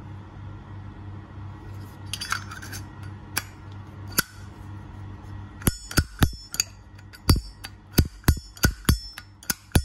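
Solid brass Zippo lighter being handled: a few small metallic clinks about two seconds in, then, from a little past halfway, its lid snapped open and shut again and again, sharp ringing metal clicks about two to three a second. The clear, ringing click is taken as a good 'âm', the sign of a healthy lid hinge and cam.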